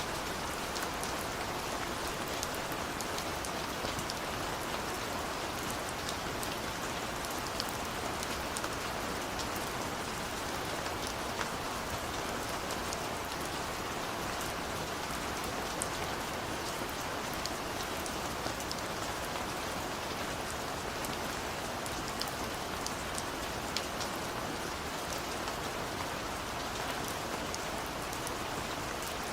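Steady rain on a window, a constant hiss with scattered light drop ticks.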